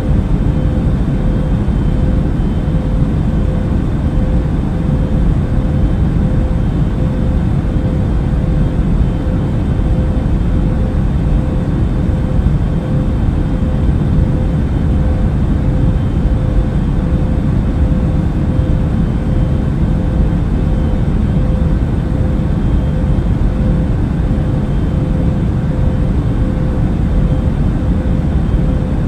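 Steady low rumble of an airliner cabin in flight, the engines' drone with a constant hum running through it.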